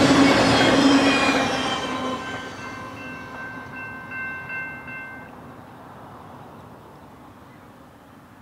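Rumble and clatter of a freight train's last cars rolling away, fading over the first few seconds. About two and a half seconds in, a distant locomotive air horn sounds one steady blast of nearly three seconds.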